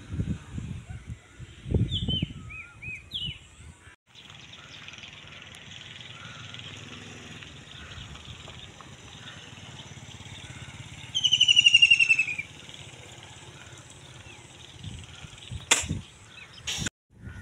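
A bird gives one loud, falling trill lasting about a second and a half, over a steady faint outdoor rumble and hiss. In the first few seconds there are short chirps and low thumps, and two sharp clicks come near the end.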